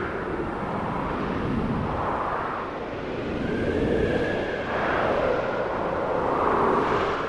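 Snowstorm wind howling: a steady rush with whistling tones that slowly rise and fall in pitch.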